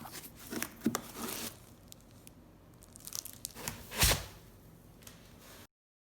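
Irregular rustling and crackling handling noise with scattered knocks, the loudest a thump about four seconds in; it stops suddenly.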